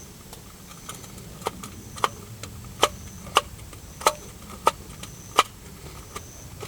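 Knife chopping on a cutting board: about seven sharp, evenly spaced cuts, a little over half a second apart.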